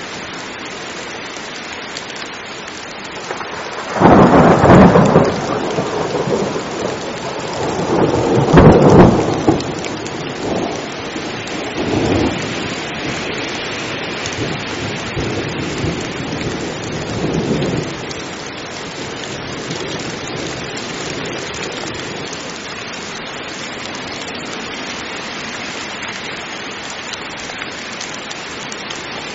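Heavy rain pouring steadily. About four seconds in a loud crack of thunder breaks, and a second comes about nine seconds in; both roll on in weaker rumbles that die away by about eighteen seconds.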